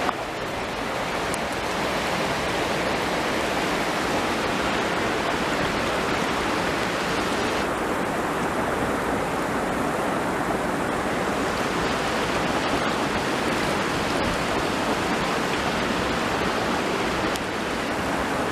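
Waterfall: a steady, loud rush of falling water, slightly duller for a few seconds near the middle.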